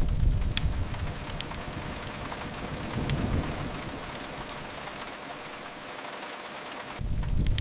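Steady rain hissing, with scattered sharp pops from a crackling fireplace. A deep low rumble runs underneath; it is loudest at the start, fades, swells again about three seconds in, and surges back near the end.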